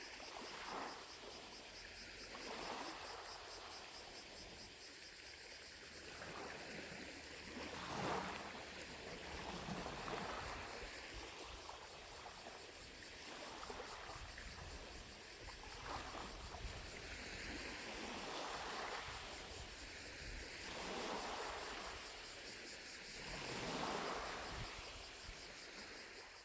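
Small lake waves lapping on the shore in soft splashes every two to three seconds. Distant cicadas buzz in a fine, even pulse high above, plainest in the first half.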